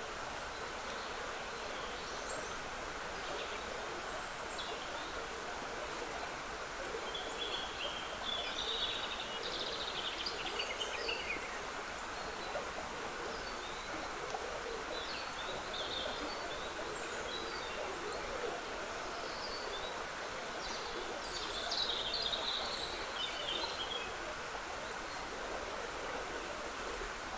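Steady trickle of a woodland stream with songbirds calling over it: scattered chirps throughout and two fuller bursts of song, about a third of the way in and again near the end.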